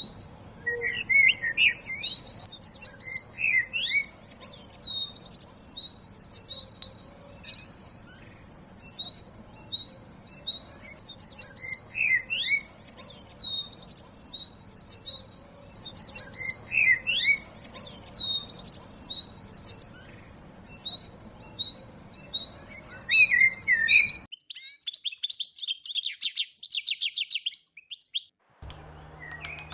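Songbirds singing and chirping, with a phrase of slurred whistles and a high trill repeated about every five seconds. Near the end the sound cuts abruptly to a different recording, with a lone high buzzy trill and then a low hum.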